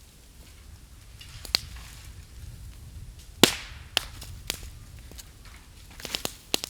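Bamboo burning in an open bonfire: sharp pops and cracks as the bamboo bursts in the heat, over a low crackle of the fire. The loudest crack comes about halfway through, and several come close together near the end.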